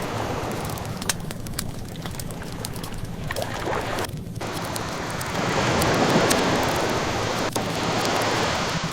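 Ocean waves washing in, one surge swelling loudest about six seconds in, with a wood fire crackling and popping over them.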